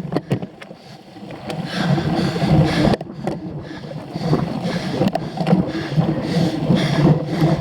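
Cyclocross bike ridden hard over rough ground: continuous rumble and rattle of tyres and frame mixed with wind on the microphone. The noise dips briefly about a second in and there is a sharp click about three seconds in.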